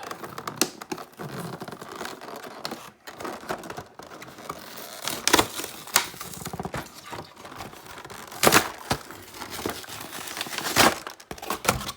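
Stiff plastic blister packaging crinkling and cardboard backing tearing as a blister glued to the card is pried open, with a few loud sharp cracks along the way.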